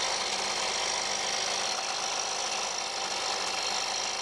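Husqvarna 125B handheld leaf blower's small two-stroke engine running steadily, warming up just after its first cold start.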